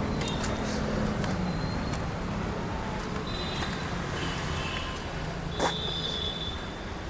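Steady road-traffic rumble, with one sharp click about five and a half seconds in.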